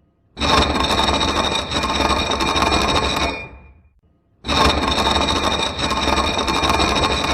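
A machine tool cutting metal, with a steady, high-pitched ringing over a dense grinding chatter. It runs twice for about three seconds each time, with a second's silence between, and each run fades out at the end.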